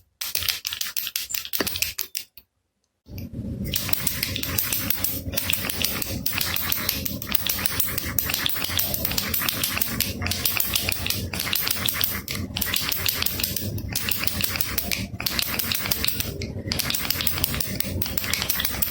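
Baby rattle being shaken, a dense, fast rattling of beads with short breaks every second or so. It drops out briefly about two to three seconds in, then runs on.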